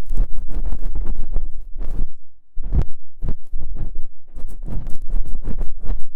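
ASMR ear-cleaning sounds: an ear pick scraping and digging against the microphone, giving dense, close crackly scratches with a deep rumble, pausing briefly a little over two seconds in.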